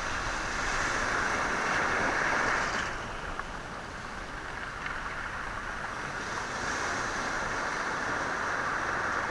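Sea waves washing over a stony shore, the stones rattling in the surf. One surge swells and drops away about three seconds in, and another builds about six seconds in.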